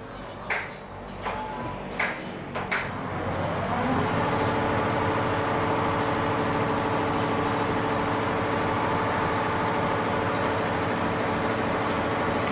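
A few sharp clicks, then a computerised embroidery machine's motor spins up with a rising whine about three seconds in and settles into a steady, even running hum.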